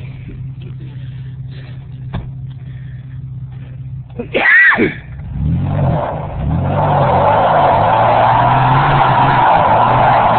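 Pickup truck engine idling, then revving hard with its wheels spinning on dirt for several seconds, typical of a stuck, high-centered truck trying to pull free. A short, loud, high-pitched sound that rises and falls comes about four and a half seconds in.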